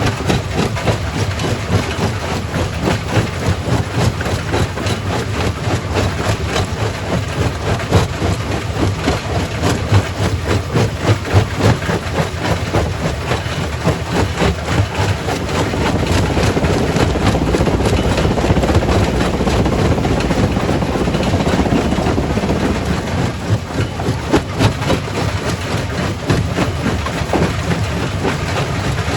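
Primary rock crusher running, with a steady heavy machine drone and rocks knocking and cracking as they are crushed. The noise grows louder for several seconds a little past halfway.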